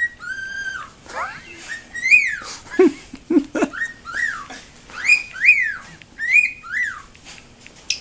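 Cockatiel giving a string of about ten short whistled calls, each rising then falling in pitch, with small gaps between them.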